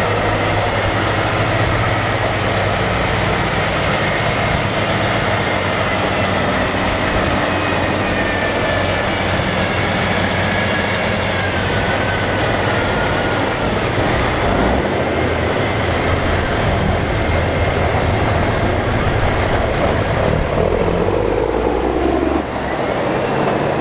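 Heavy trucks driving past with their diesel engines running steadily. A thin high whine slowly falls in pitch through the middle, and a lower sweep comes near the end.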